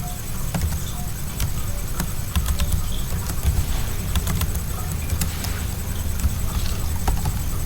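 Computer keyboard being typed on: irregular key clicks over a steady low hum.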